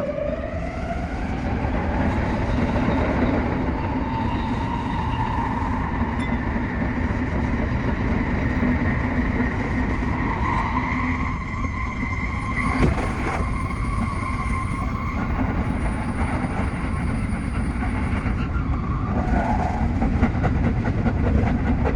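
Tsukuba Express TX-3000 series electric train running on the line: its motor whine rises in pitch over the first couple of seconds as it accelerates, then holds steady under continuous running noise.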